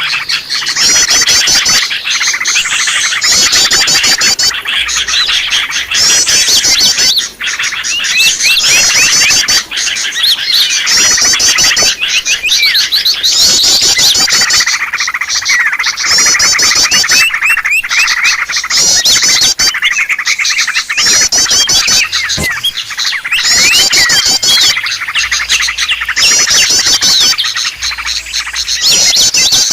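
A dense, noisy chorus of many small songbirds chirping and twittering without a break. Short, fast, high trills repeat every second or two. This is a bird-lure recording, played to draw wild birds in.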